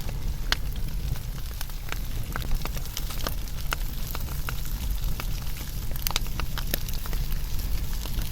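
Wood fire burning, its logs crackling with many sharp, irregular pops over a steady low rumble of the flames.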